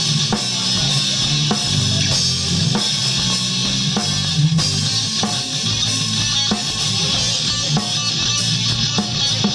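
Live rock band playing: guitars and bass over a drum kit keeping a steady beat.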